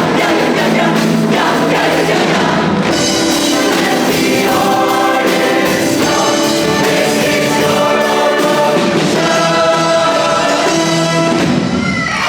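High school show choir singing in harmony over loud pop accompaniment.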